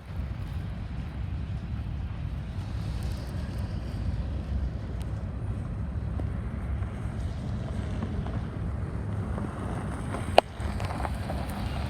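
Low, steady rumble of a slow-moving Union Pacific freight train, mixed with wind buffeting the microphone. A single sharp click comes about ten seconds in.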